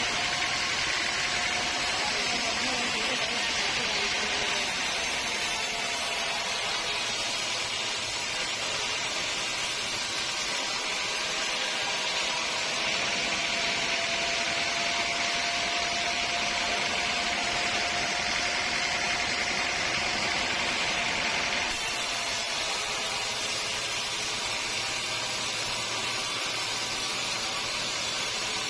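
Sawmill saw running steadily through a log, a continuous high hiss over a faint steady hum; the hiss eases off about 22 seconds in.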